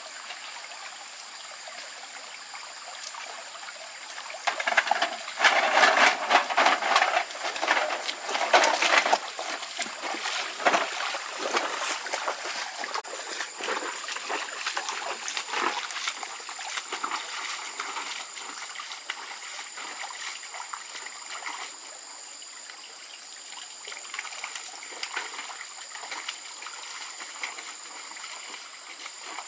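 Water trickling and splashing, with a louder, busier stretch of splashing from about five to twelve seconds in that then settles into smaller irregular splashes. A faint steady high-pitched whine runs underneath.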